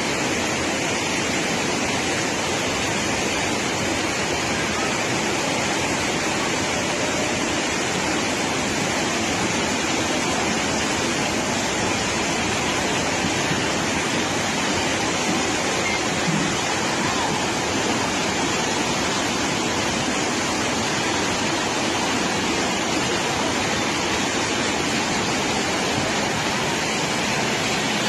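Steady, unbroken rush of turbulent floodwater, like a swollen river in spate.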